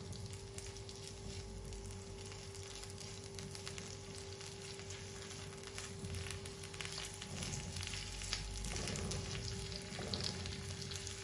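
Diced bell pepper and cherry tomatoes sizzling in olive oil in a frying pan while being stirred with a silicone spatula. The crackle grows livelier after about six seconds, over a faint steady hum.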